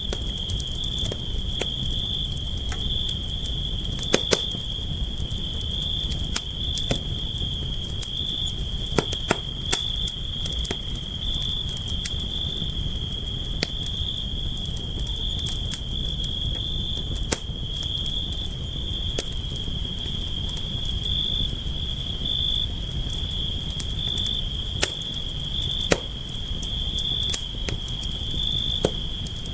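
Campfire burning with a low steady rumble and irregular sharp crackles and pops, a few louder ones about 4, 9 and 26 seconds in. A steady high-pitched tone runs underneath without a break.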